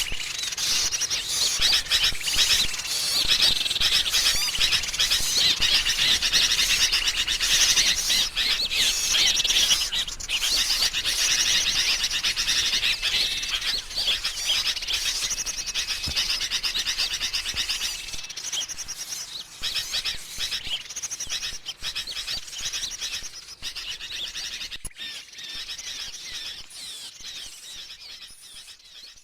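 Bird-lure recording of agitated sooty-headed bulbul alarm-chatter mixed with other small songbirds, a dense, unbroken tangle of chirps and trills. It fades out gradually over the last ten seconds or so.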